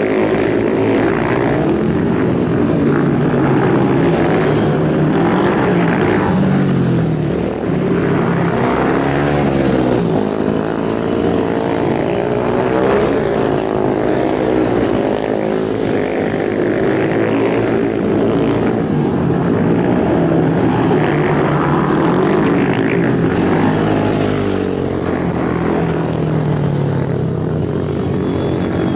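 Several racing motorcycle engines running hard together, their pitch rising and falling over and over as they rev and ease off.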